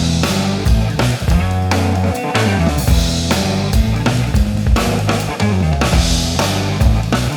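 A band playing an instrumental passage of a pop song: drum kit keeping a steady beat under acoustic guitar, keyboards and synthesizers, with no singing.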